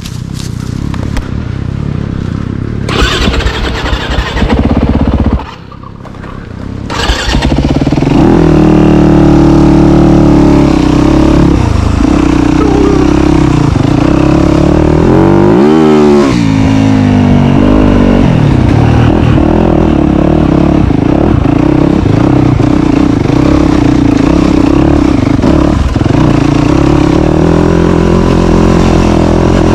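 Dirt bike engine running, rough and uneven for the first several seconds, then holding loud steady revs; around the middle the pitch drops and climbs back once.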